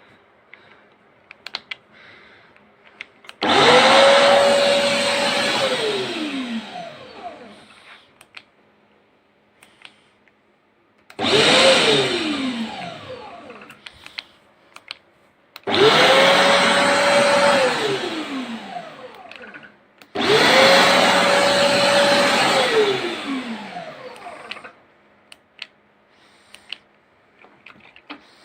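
An electric vacuum motor switched on and off four times. Each time it spins up to a steady whine within a moment and runs for a couple of seconds, the second time only briefly. After each switch-off it winds down with a falling pitch.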